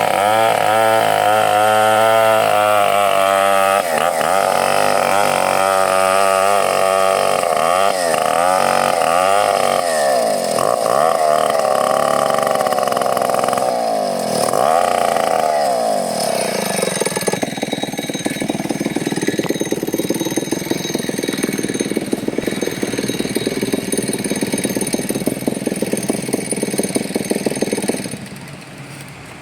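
Two-stroke chainsaw engine running hard, its pitch rising and falling repeatedly as it revs and bogs in the cut. After about sixteen seconds it changes to a rougher, steadier running sound, which drops away sharply near the end.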